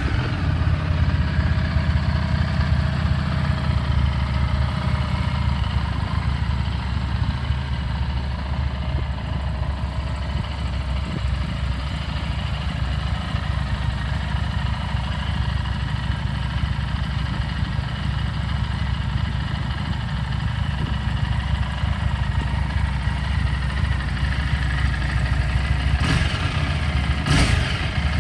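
Harley-Davidson Street 750's liquid-cooled 749cc V-twin idling steadily just after being started, with a few brief bursts of noise near the end.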